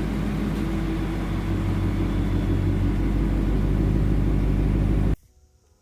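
A car engine running steadily with a deep, low sound, cutting off abruptly about five seconds in.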